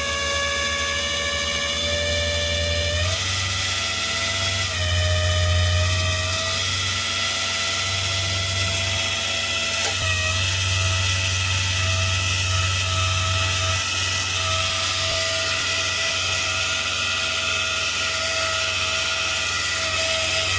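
Tow truck's hydraulic winch and pump whining steadily while pulling a vehicle up onto the bed, its pitch stepping up slightly a few times.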